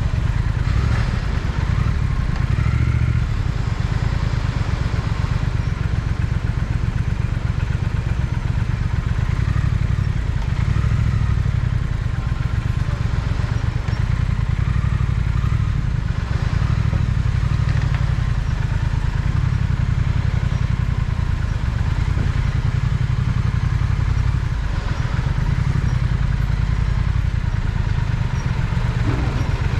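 Triumph Speed Twin's parallel-twin engine running steadily with a low, pulsing exhaust note.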